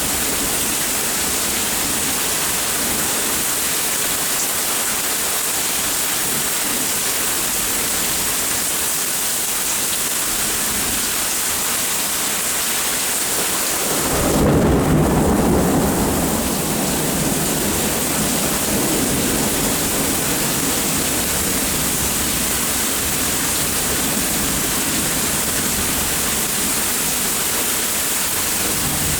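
Steady heavy rain. About halfway through, a rumble of thunder breaks in suddenly, peaks over a second or two, then rolls away over several seconds.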